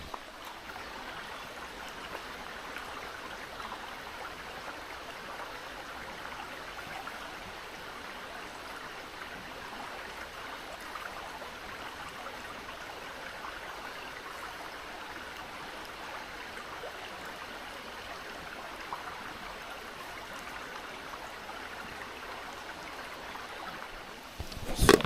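Mountain stream babbling steadily over rocks, with a couple of sharp clatters right at the end.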